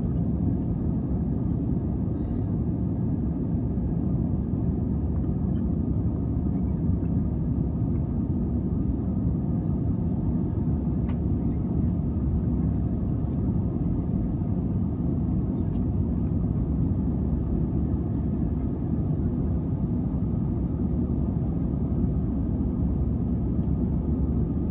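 Steady low rumble of an Airbus A320 airliner heard from inside the passenger cabin: engine and airflow noise, with a few faint clicks.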